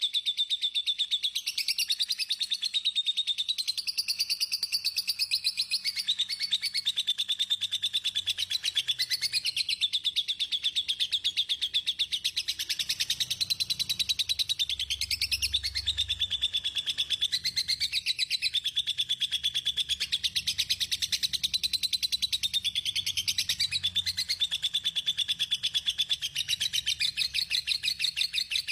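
A songbird singing one long unbroken rapid trill: a dense chatter of very fast notes that wavers up and down in pitch.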